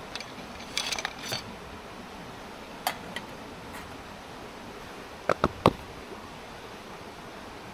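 Camp gear being handled: a few light clicks and clinks, then three sharp knocks in quick succession about five seconds in, over a steady background hiss.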